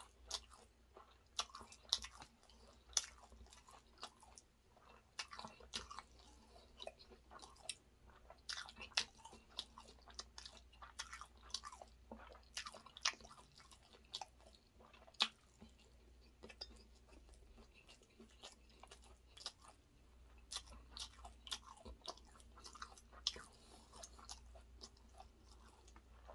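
Close-miked chewing of chicken biryani rice eaten by hand, with irregular wet mouth clicks and smacks.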